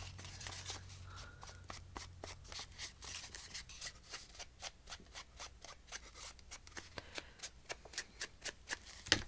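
Paper being handled at a craft table: a run of quick, light clicks and rustles, about four a second, with one sharper click near the end.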